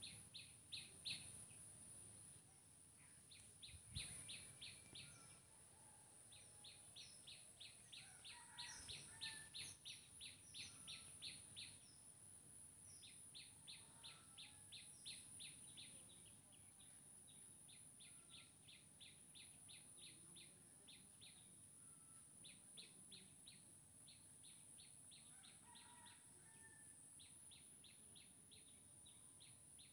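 Faint bird chirping: a sharp, high note repeated about three or four times a second in long runs with short pauses between them, over a steady high-pitched whine.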